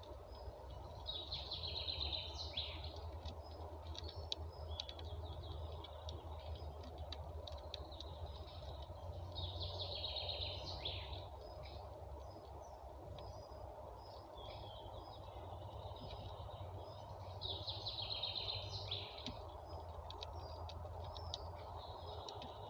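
A songbird singing the same short song phrase three times, about eight seconds apart, with scattered short chirps between, over a steady low background rumble.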